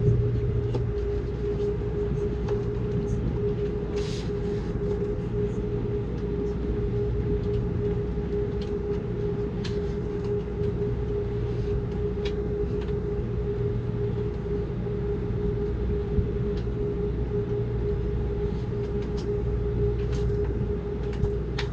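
Amtrak Cascades passenger train running along the track: a steady low rumble with a constant hum over it and a few faint clicks and knocks now and then.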